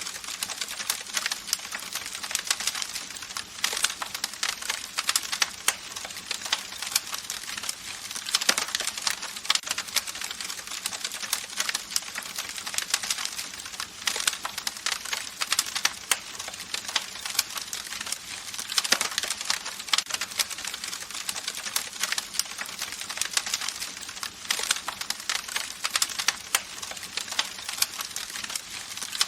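Campfire burning with dense, irregular crackling and popping from the burning wood over a steady hiss of flame.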